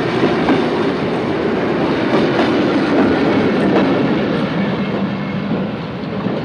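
French steam-hauled express train rolling out of a station, wheels clattering clickety-clack over the rail joints with scattered sharp clicks over a steady rumble. The sound slowly fades from about four seconds in as the train pulls away.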